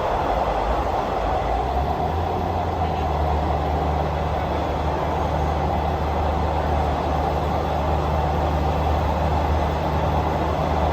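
Steady running noise of a moving train: an even rumble with a constant low hum underneath, unchanging throughout.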